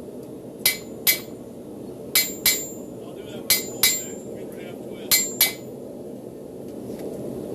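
Hand hammer striking railroad-spike steel on a Hay Budden anvil, drawing out a knife handle. There are four pairs of blows, each ringing briefly, over a steady low background noise.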